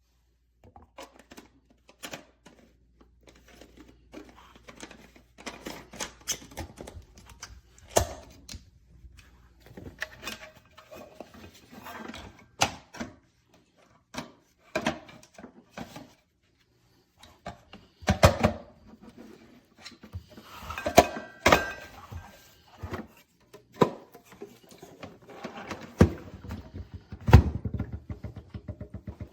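Irregular knocks, clicks and thunks of hard objects being handled and set down in a small room, some sharp and loud, others faint.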